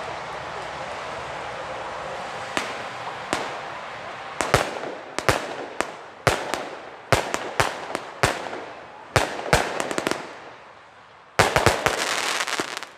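Weco Pyro Concept 905 compound firework battery firing: a steady hiss at first, then a run of sharp, irregular bangs from the shots. Near the end comes a dense, rapid cluster of bangs and crackling.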